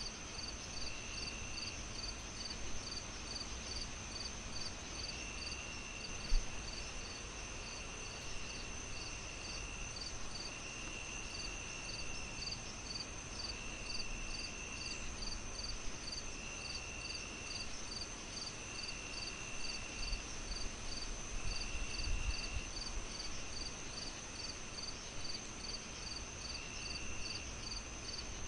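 Insects chirping steadily, like crickets: a rhythmic chirp about three to four times a second over a constant high trill, with a lower buzz coming in spells of about a second. A soft steady hiss lies underneath, and a single low thump comes about six seconds in.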